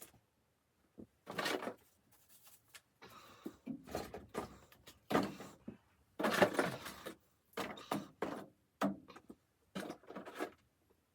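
A series of irregular rustles and knocks, each under a second, with short silent gaps between them.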